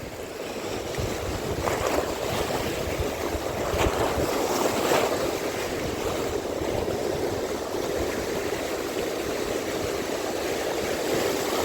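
Steady wash of waves and water, with wind on the microphone.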